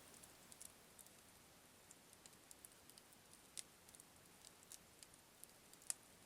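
Wood fire crackling faintly: sparse, irregular sharp pops and ticks over a low hiss, with a louder pop about three and a half seconds in and another near six seconds.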